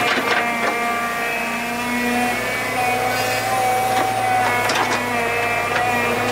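A machine motor running at a steady pitch, with a few sharp clicks or knocks over it.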